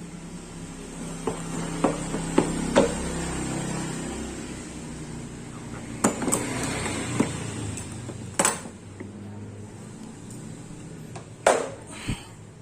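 Hard objects handled during the unboxing of a DeWalt hammer drill kit: a scatter of sharp clacks and knocks over rustling. The loudest knocks come about two-thirds of the way through and again near the end.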